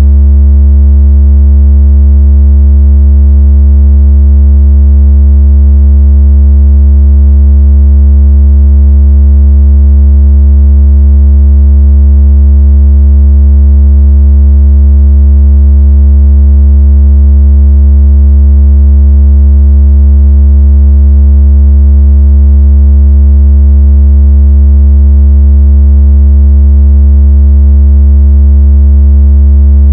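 Very loud, deep synthesized bass tone held without change, with a buzzy edge from its overtones: a generated speaker-cleaning tone meant to vibrate water out of a phone speaker.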